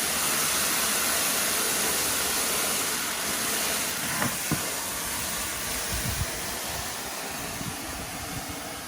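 Water running from a hose, a steady hiss that slowly fades in the second half, with a few short knocks around the middle.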